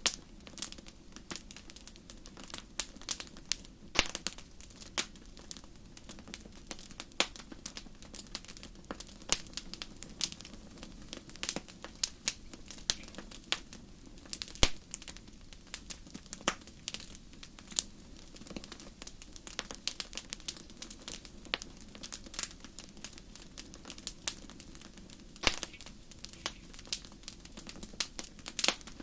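Wood campfire crackling: irregular sharp pops and snaps, several a second at uneven spacing, over a low steady background.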